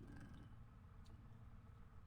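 Near silence: steady low room hum with a couple of faint soft clicks.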